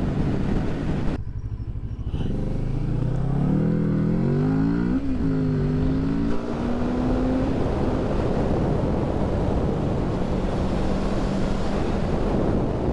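Kawasaki Z650's parallel-twin engine under way: its pitch rises as it accelerates, drops at a gear change about five seconds in, then holds steady as it cruises, under constant wind noise.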